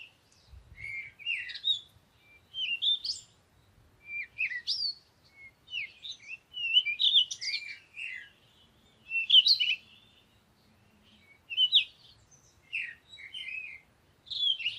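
Bird chirping: short phrases of high, quick chirps, repeated every second or two with short pauses between.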